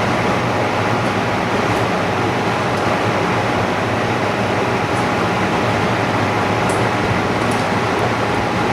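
Steady mechanical noise with a faint steady whine, like machinery or an air pump running, and a few faint light ticks.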